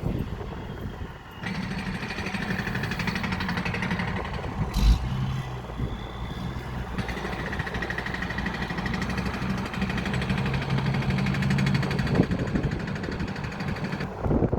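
Vehicle engines running steadily, the sound changing abruptly a few times as if cut between different trucks and cars, with one short knock about five seconds in.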